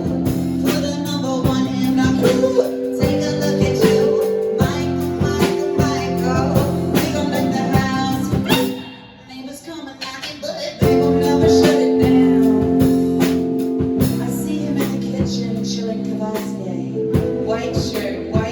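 Live band playing a song, with a female singer and guitar over a steady beat. About halfway through the music drops away almost completely for a couple of seconds, then the full band comes back in.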